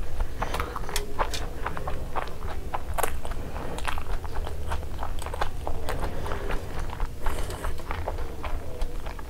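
Close-miked chewing and biting of sunny-side-up fried eggs: a dense, irregular run of wet mouth clicks and smacks, with some crunching of the browned, crisp egg-white edges.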